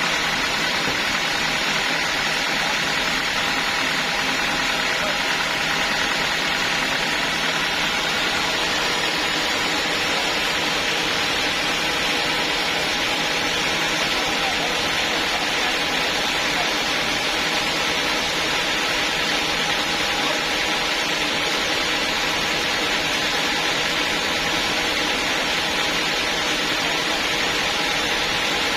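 Sawmill log saw running steadily, an unbroken machine drone with a few held tones and no breaks.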